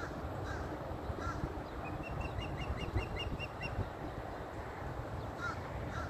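Birds calling from a tree: a quick run of about ten short, high chirps in the middle, with a few lower single calls before and after, over a steady low rumble.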